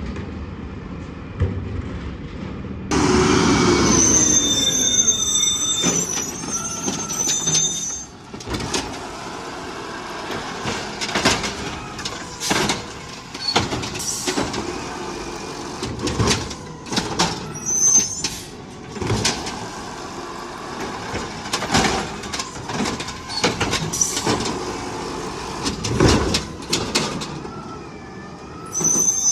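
Garbage truck at work: a loud stretch of high metal squealing with a falling whine, then a long run of irregular metallic clanks and bangs.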